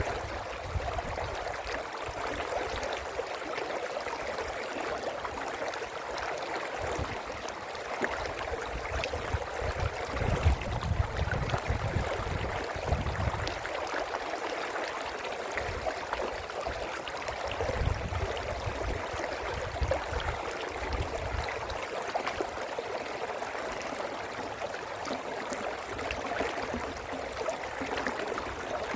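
Brook water flowing steadily, a continuous rush and gurgle of running water. A low rumble swells in twice, about ten seconds in and again near eighteen seconds.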